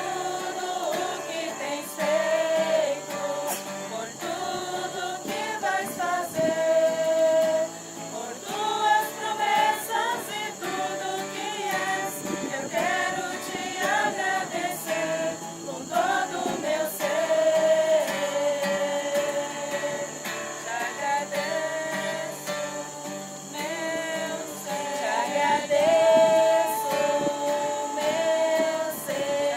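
A group of voices singing a hymn together, with acoustic guitar accompaniment.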